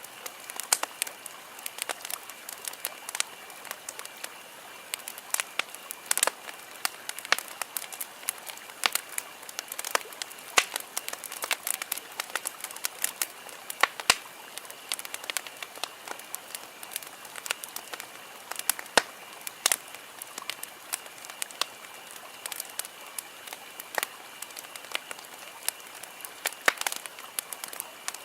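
Wood campfire burning, crackling steadily with frequent sharp pops and snaps at irregular intervals over a soft hiss. A faint, steady high-pitched tone sits in the background.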